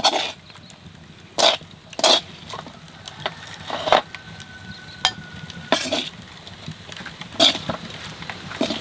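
A utensil stirring and clinking against a pot or bowl of hot food, with about seven short, irregular knocks.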